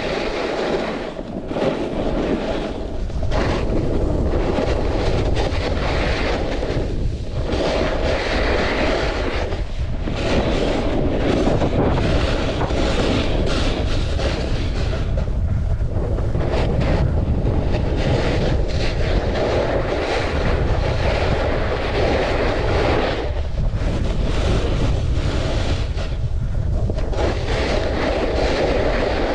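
Snowboard sliding and scraping over snow, a continuous rumbling hiss that eases briefly every few seconds, with wind buffeting the microphone.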